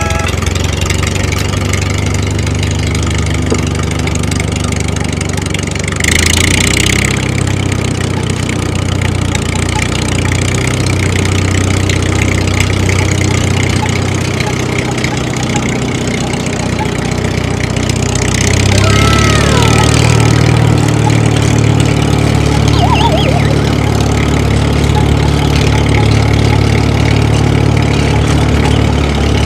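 An engine running steadily at idle, with two brief louder, hissier surges, about six seconds in and again around eighteen to twenty seconds.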